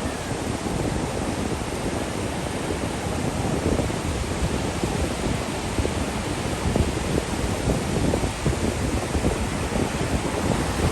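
Ocean surf washing in, with wind buffeting the microphone: a steady rush of noise over uneven low rumbling gusts.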